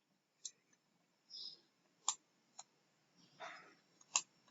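Faint, scattered computer mouse clicks, about four sharp separate clicks, with a couple of soft rustling noises between them.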